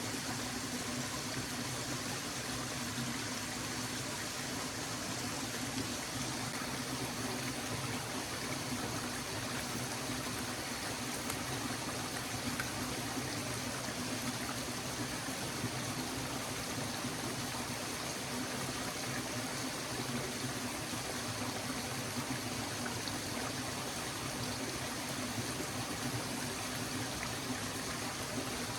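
A stream running steadily, an even rush of flowing water with no breaks.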